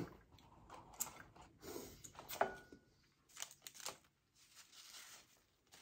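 Quiet, intermittent mouth sounds of someone chewing French fries with ketchup, with a few light rustles of paper napkins and ketchup packets being handled.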